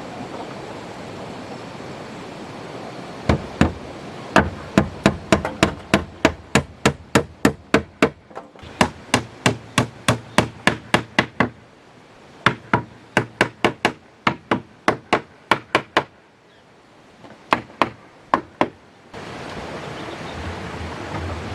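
Hammer blows on wood: quick, even strikes about three a second in two long runs with a short pause between, then a last few blows.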